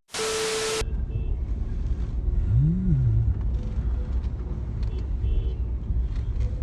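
Steady low rumble of a moving road vehicle, with one brief rise and fall in pitch about three seconds in. It opens with a short burst of hiss carrying a steady tone.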